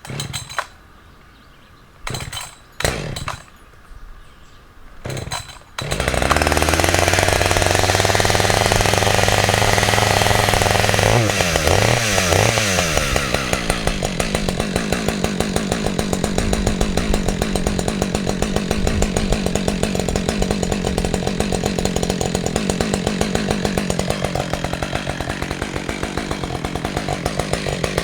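Husqvarna 555 two-stroke chainsaw pull-started: a few short pulls, then it catches about six seconds in and runs fast for about five seconds before the revs fall to a steady idle. It is idling so its AutoTune carburetor can adjust itself.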